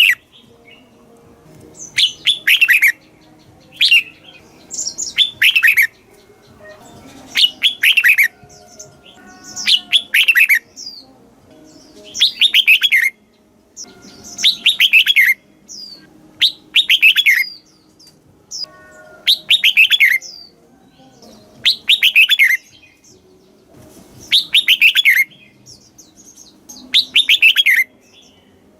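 Red-whiskered bulbul singing: short, loud phrases of quick notes that slide downward, repeated about every two seconds.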